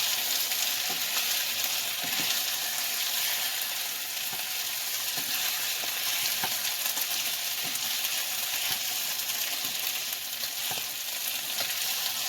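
Chicken thighs sizzling and frying in their own fat, no oil, in an Instant Pot on the sauté setting, the skin browned. A steady hiss with small scattered crackles.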